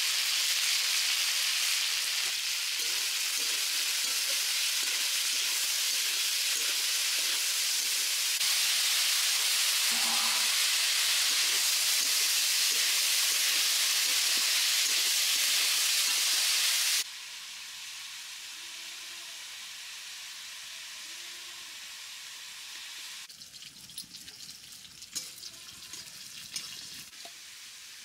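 Sliced bitter gourd and potato sizzling as they fry in oil in a steel wok, with the spatula scraping as it stirs. The loud sizzle cuts off suddenly about two-thirds of the way in, leaving much quieter sounds.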